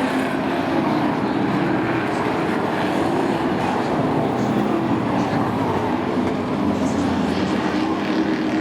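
Engines of a field of short-track sport trucks running at speed around an oval, a steady continuous sound with no let-up.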